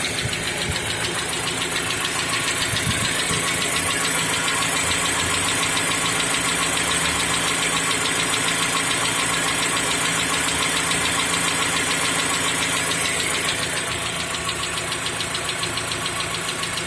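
Mazda CX-5 SkyActiv petrol engine running with a rapid, even ticking knock over its steady note, easing slightly about three-quarters of the way through. This is the cold-engine knock the owner suspects comes from the hydraulic lash adjusters or the connecting rods.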